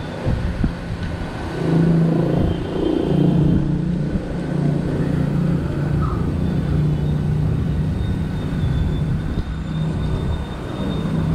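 A motor vehicle's engine running with a steady low hum over rumbling road noise, growing louder about two seconds in.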